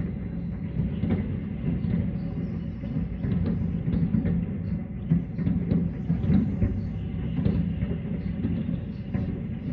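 Aerial fireworks exploding in quick succession, their overlapping booms merging into a continuous low rumble, with sharper bangs scattered through it.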